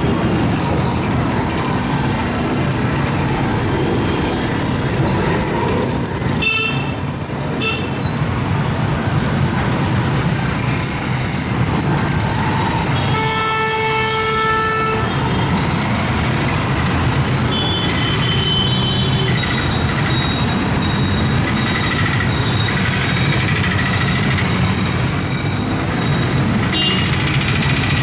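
A steady, loud roar throughout, with a vehicle horn sounding one held note for about two seconds around the middle.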